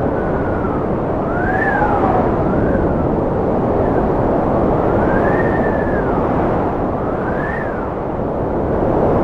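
Cold wind blowing steadily: a dense rushing noise with high whistling tones that rise and fall every second or two.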